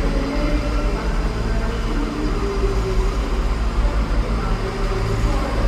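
Train running: a steady, loud low rumble and hum.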